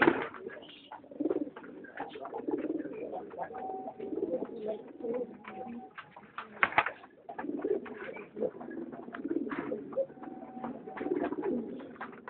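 Many pigeons cooing together, a dense low burbling chorus, with scattered clicks and knocks throughout and two sharp knocks, one at the very start and one a little past halfway.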